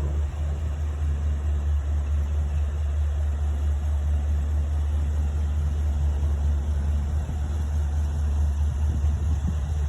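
A truck engine idling with a steady low rumble.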